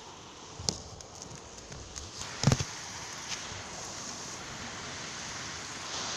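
Heavy rain pouring, a steady hiss, with a few clicks and a louder thump about two and a half seconds in, after which the rain is a little louder.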